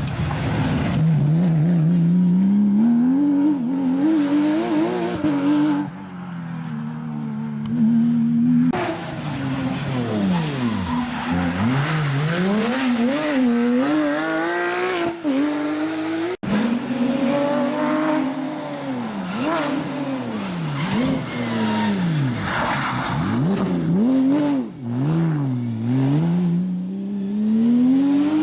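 Porsche rally and hill-climb cars with flat-six engines driven hard, the engine note climbing through the revs and dropping sharply on each gear change and lift, over several clips in a row.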